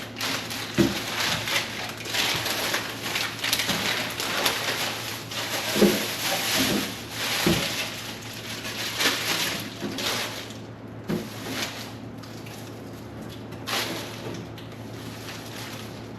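Food containers and packaging being handled and put into a refrigerator: continuous rustling and scraping with a few dull knocks as things are set down, about a second in, twice around six to seven seconds, and near eleven seconds. A steady low hum runs underneath.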